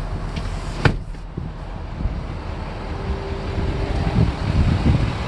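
Ford F550's 6.7-litre turbo-diesel engine running with a steady low rumble, wind buffeting the microphone. There is a sharp click about a second in.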